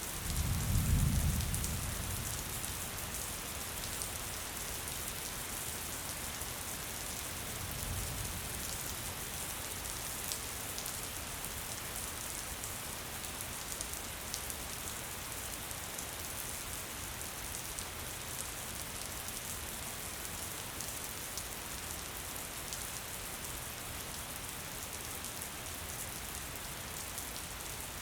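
Gentle rain falling steadily, an even hiss with small drops ticking on a surface. There is a low rumble about a second in, and a fainter one around eight seconds.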